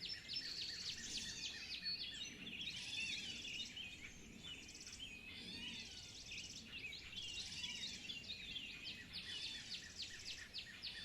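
A dense chorus of small birds chirping, many short chirps and sweeping notes overlapping, with repeated buzzy trills among them.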